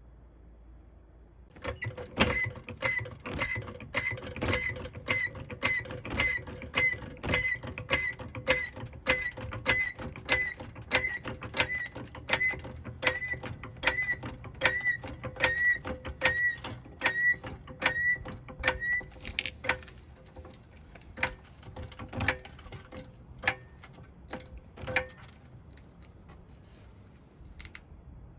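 A mechanism clicking in a steady rhythm, about two to three strokes a second, with a short squeak on each stroke. The clicks turn slower and irregular for several seconds, then stop near the end.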